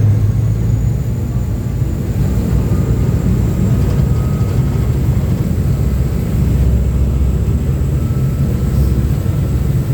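Uber Boat river bus under way at speed, heard from its open outside deck: a loud, steady low rumble of the engines and the boat's passage, with a faint steady high whine.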